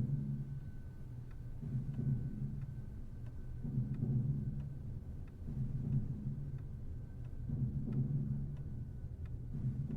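Steady ticking, about two ticks a second, over a low rumbling drone that swells and fades every second or two.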